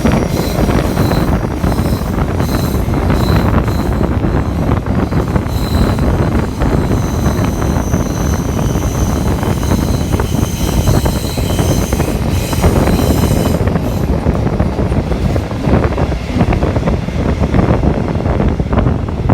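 A train running past on the rails, with steady rumbling wheel and track noise and thin high whines coming and going above it.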